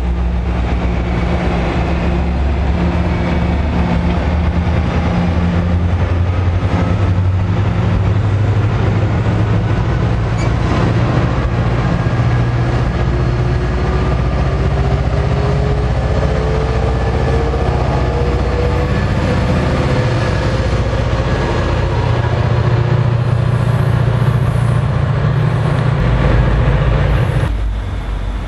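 NJ Transit diesel-hauled commuter train of bilevel coaches pulling out and rolling past: a steady low locomotive engine drone with a faint rising whine through the middle, until it cuts off abruptly near the end.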